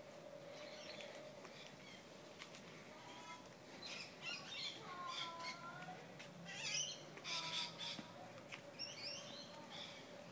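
Birds calling and chirping in a cluster of short, sweeping calls between about three and nine seconds in, over a faint steady hum.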